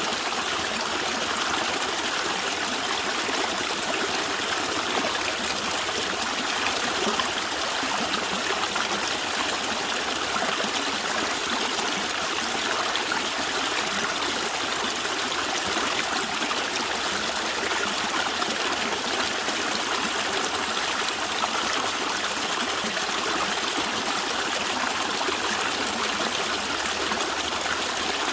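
Stream water gurgling and trickling steadily.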